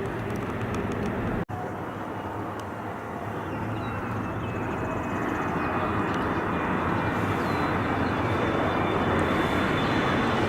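Airliner engines, a broad steady noise growing steadily louder as the aircraft approaches.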